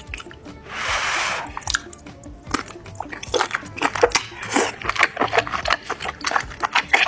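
Close-miked eating sounds of mixed seafood: biting and chewing with many quick, irregular crunchy clicks and wet smacks, and a short hiss about a second in.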